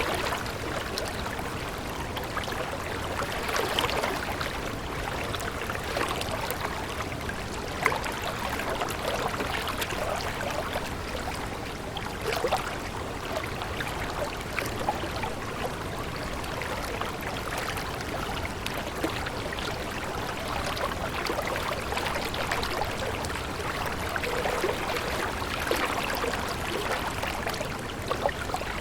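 A stream of running water flowing steadily, with many small splashes and gurgles.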